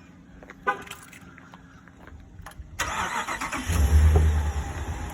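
Pickup truck's engine starting about three seconds in, with a brief loud low surge as it catches, then settling into a steady idle. A few small clicks come before it.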